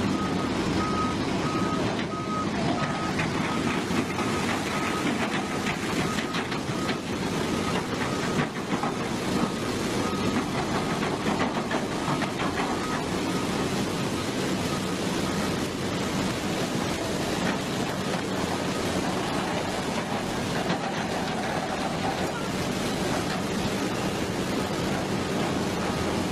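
A vehicle's reversing alarm beeping in an evenly repeating series over steady engine and road noise; the beeping stops a little past halfway, while the engine and road noise carry on.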